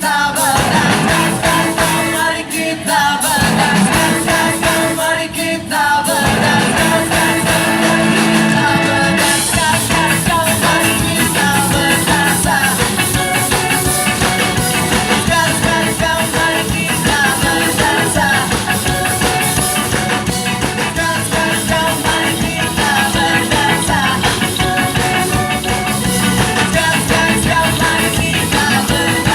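Ska band music with a singer, the full band playing. The band stops briefly a few times in the first six seconds, then plays on steadily.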